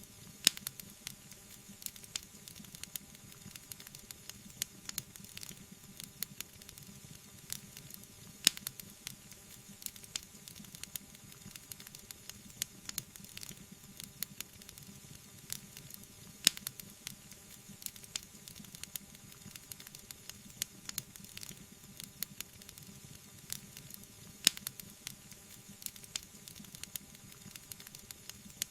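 Wood fire burning in a fireplace: dense, irregular crackling over a soft hiss, with four louder sharp pops spaced about eight seconds apart.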